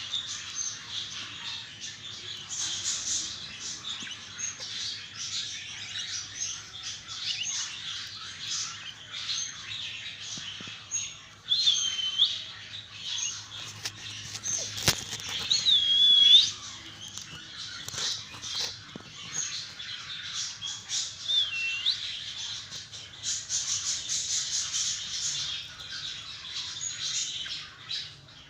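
Two budgerigar chicks chirping in a continuous rapid, high-pitched chatter. Three louder, drawn-out calls stand out through the middle.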